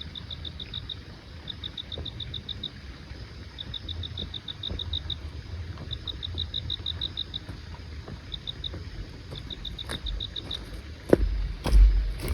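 An insect chirping in high, rapid pulsed trills, each about a second long and repeated every second or two. A few loud low thumps come near the end.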